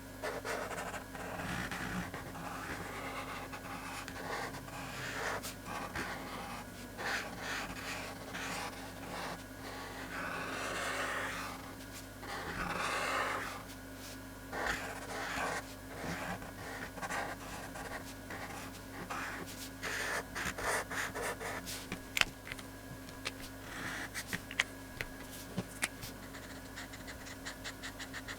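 A pen scratching on paper in repeated colouring strokes, each lasting about half a second to a second and a half. In the later part it is mixed with quick little taps and clicks. A faint steady hum lies underneath.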